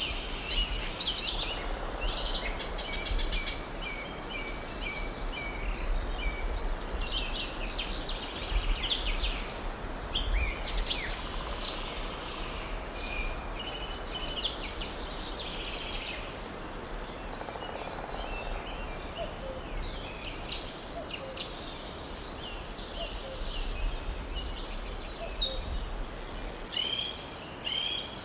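Forest birdsong: several birds chirping and trilling in overlapping short phrases, over a steady background hiss and low rumble.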